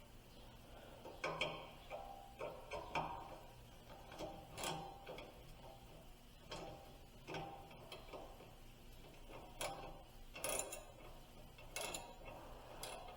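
A dozen or so irregularly spaced metallic clicks and knocks of tools working on the exhaust tip as it is tightened onto the pipe.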